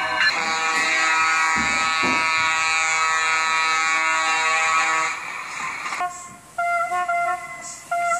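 Multi-chime train air horn sounding a long chord blast of about five seconds, then, after a brief drop, a horn in a different chord giving short blasts.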